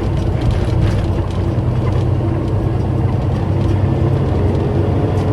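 Diesel engine of a semi grain truck running steadily while driving, heard from inside the cab.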